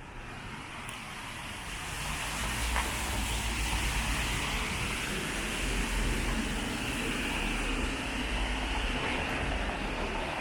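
Traffic on a rain-wet city street: tyres hissing on the wet road over a low engine rumble, growing louder about two seconds in.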